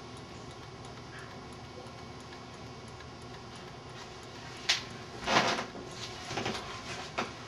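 Small Stirling heat engine running steadily, with a light ticking at about three ticks a second. A few louder clicks and knocks come in the second half.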